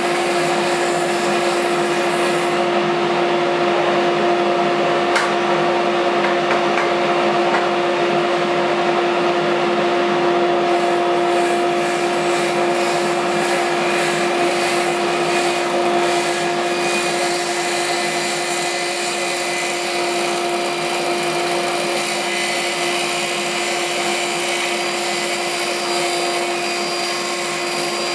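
Table saw running with a steady whine. The texture of its sound changes between about 10 and 17 seconds in.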